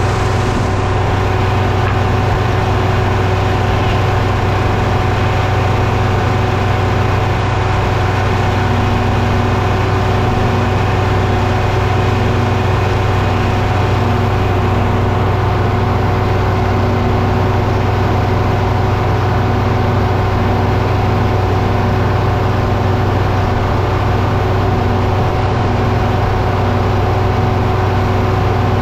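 An engine running at a steady, unchanging speed with a constant hum, and no load changes or cutting sounds standing out.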